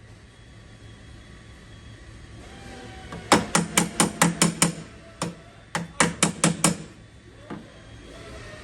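Metal panel-beating strikes on a car's steel quarter panel, with a short ring after each blow. There is a quick run of about seven blows, then a single blow, then about five more.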